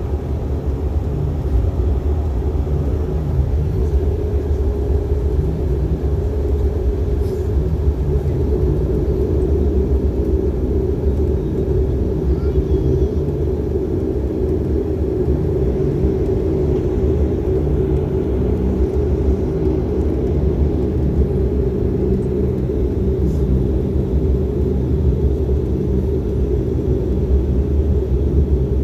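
Cabin drone of a de Havilland Canada Dash 8 Q400's two Pratt & Whitney PW150A turboprops and propellers running steadily, heard from inside the passenger cabin: a low hum with a steady mid-pitched tone over it.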